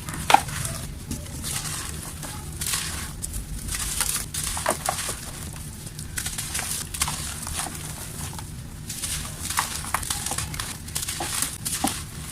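Dry mud chunks crumbling and crunching by hand: repeated gritty crackles and sharp snaps, the loudest snap just after the start, over a steady low hum.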